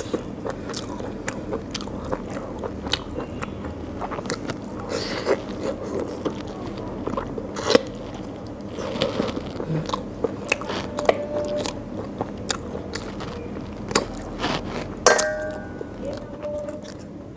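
A person eating rice and curried meat by hand, close to the microphone: wet chewing, lip smacks and many sharp mouth clicks, a few of them louder bites. A brief hummed vocal sound comes near the end.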